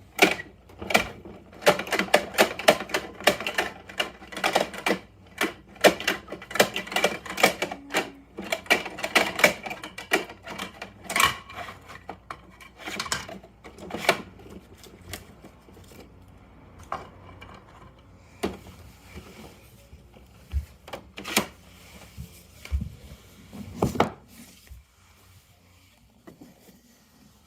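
Rapid plastic clicking and clattering from a Bruder Mack toy garbage truck and its bins being handled. The clicks come thick and fast for about the first half, then thin out to scattered knocks.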